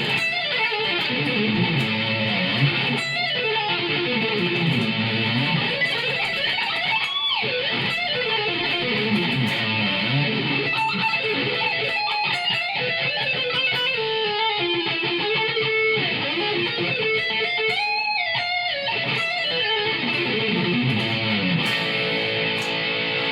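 Electric guitar playing continuous riffs, a Jackson Dinky run through a Zoom G5N multi-effects pedal patch into a Marshall MG30FX amp.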